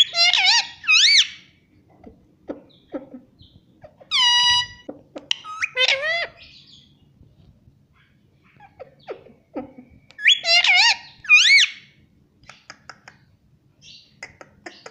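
Pet parrot calling in short whistled phrases, in four bouts of about a second each, the pitch swooping up and down, with soft clicks between them.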